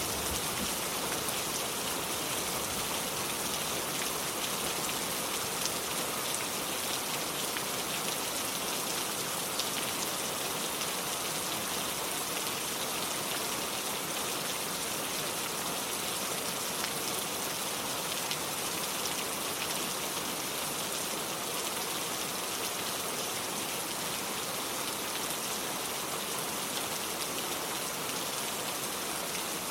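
Gentle rain falling steadily: an even hiss dotted with many fine, scattered drop ticks.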